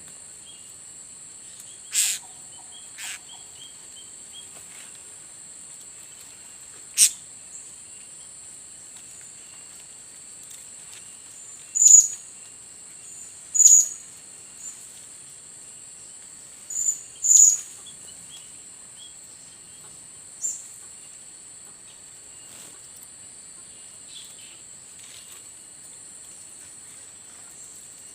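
Short, sharp, very high-pitched calls of blue-crowned hanging parrots (serindit), coming singly or in quick pairs a few seconds apart, the loudest about halfway through, over a steady high insect drone.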